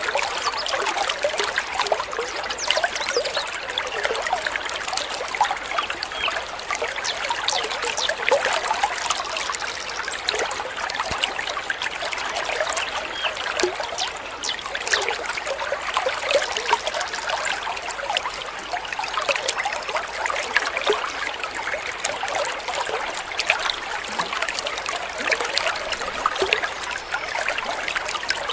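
Small stream of water trickling and babbling steadily, a dense run of little bubbling splashes.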